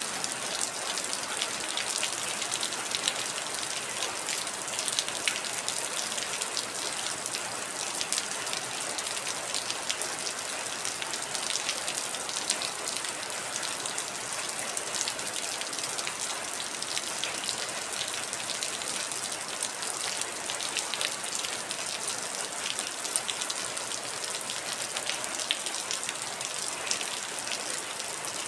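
Heavy rain falling steadily: an even hiss with dense small ticks of individual drops striking.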